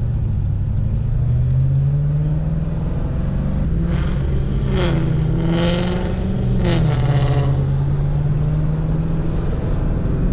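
Second-generation Cadillac CTS-V's supercharged 6.2 L V8 running at low revs while driving, its note rising and falling gently. Briefly about halfway through, other higher wavering sounds play over it.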